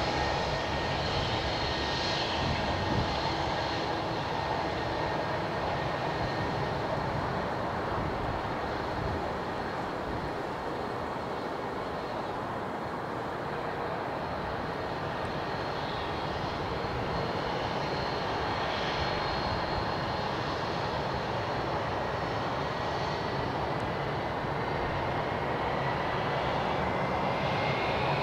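Airbus A321 jet engines running steadily, a rushing noise with a thin high whine over it; the whine rises in pitch over the last few seconds.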